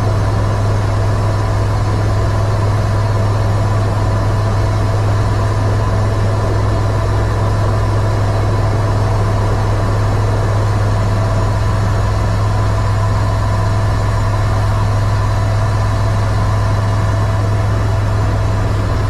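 Eurocopter EC130 helicopter heard from inside the cockpit: the steady, unchanging drone of its rotors and single turboshaft engine, with a strong constant low hum and faint steady whine tones above it.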